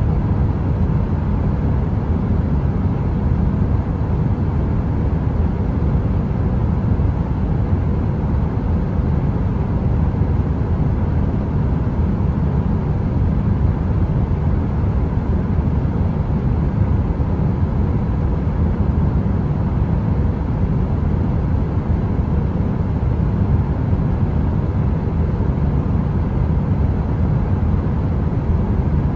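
Heater running: a steady, deep rumbling noise with a faint hum and no crackle or change.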